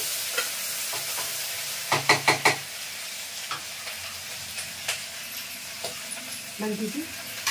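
Chopped vegetables sizzling as they fry in mustard oil in a metal pot. A spoon stirs through them, knocking against the pot four or five times in quick succession about two seconds in, with a few lighter clicks later.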